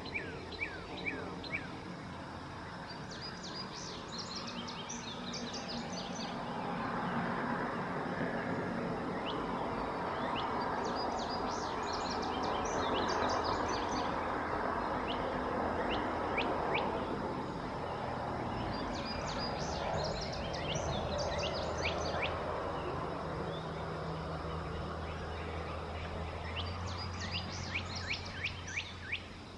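A songbird singing a short, fast run of high chirps, repeated four times about eight seconds apart, over a steady outdoor background hiss with a low hum in the second half.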